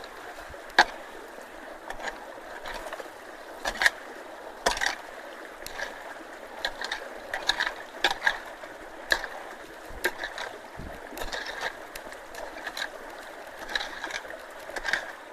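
Steady rush of running water with irregular knocks, clicks and scrapes over it.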